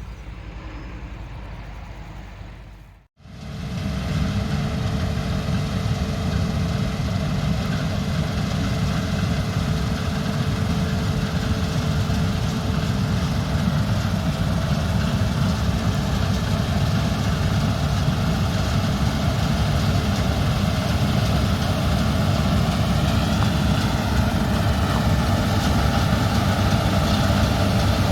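Heavy harvest machinery's diesel engine running steadily, a low hum with a few held tones over it. About three seconds in, a quieter engine sound cuts out to a moment of silence and the louder running takes over.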